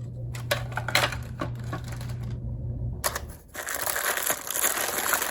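Scattered clicks and taps of a plastic cordless-phone handset and battery being handled over a low hum that stops about three seconds in, then dense crinkling of packaging as the next item is unwrapped.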